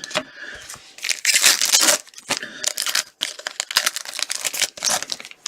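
Wrapper of a trading card pack being torn open and crinkled by hand, in irregular rustling bursts.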